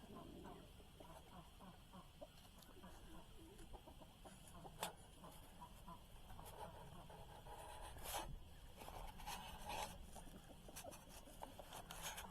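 Faint clucking of chickens, with a few sharp clicks, the clearest about five and eight seconds in.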